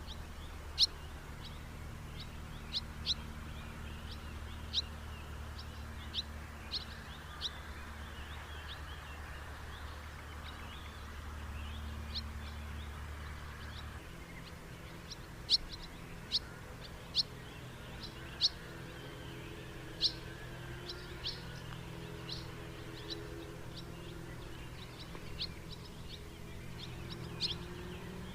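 House martins calling: short, sharp chirps scattered irregularly, some in quick pairs, over a steady low background hum.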